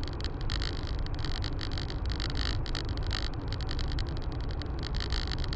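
Steady road and engine rumble of a moving car as picked up by a dashcam, with many fine ticks over it.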